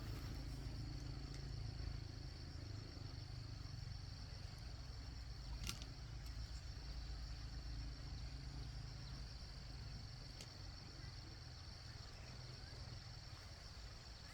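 Steady high-pitched chorus of insects, with a low rumble underneath and a faint click about halfway through.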